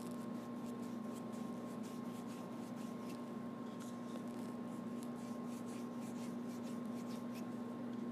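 Paintbrush strokes on a stage backdrop: a quick, irregular run of light scratchy scrapes over a steady low hum.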